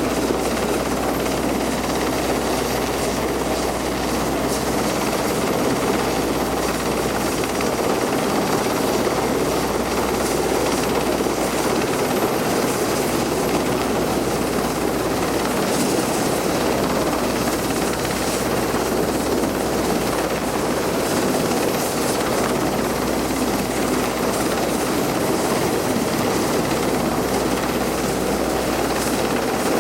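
RAF rescue helicopter running steadily close by, its rotor and engine noise loud and unbroken.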